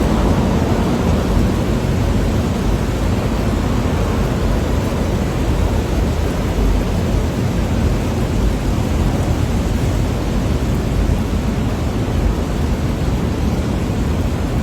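Typhoon wind and heavy rain: a loud, steady rush of noise with a deep rumble of wind on the microphone.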